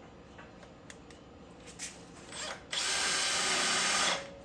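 Electric drill with a cobalt bit starting about two and a half seconds in and running for about a second and a half as it drills into steel channel iron, then stopping.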